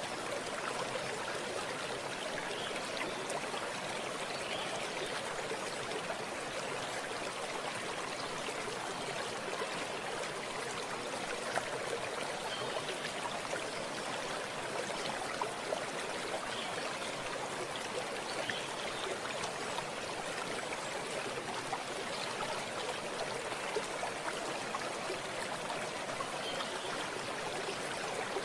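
Running water of a natural stream, flowing and burbling steadily with small splashes scattered through.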